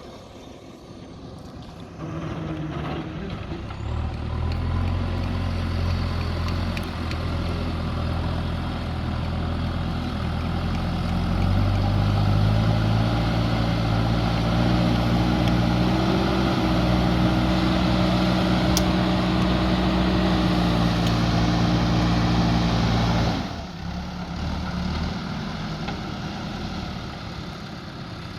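JCB 3DX backhoe loader's diesel engine running, revving higher about a third of the way in and holding the higher speed for around ten seconds as it works, then dropping away abruptly near the end.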